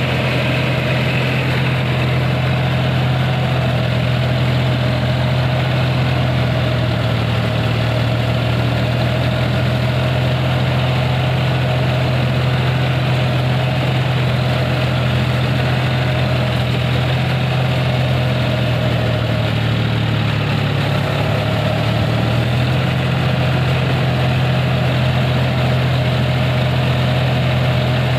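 John Deere 5050D tractor's three-cylinder diesel engine idling steadily; its pitch wavers briefly about three-quarters of the way through.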